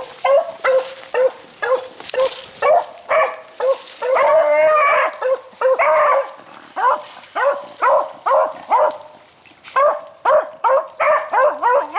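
Beagles baying in a steady run of short barks, about two a second, with a couple of longer drawn-out bays in the middle. The dogs are barking at a rabbit that has gone to ground in a hole.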